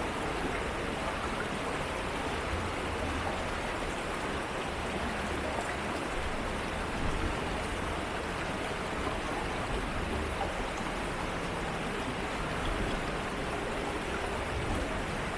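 An urban stream flowing steadily, its water rushing in an even wash of sound with no breaks.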